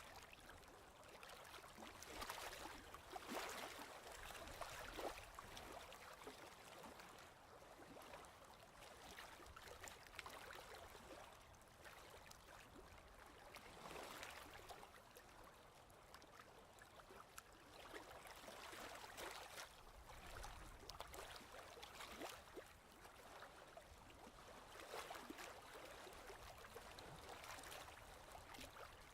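Faint ocean waves washing in, swelling and fading every few seconds.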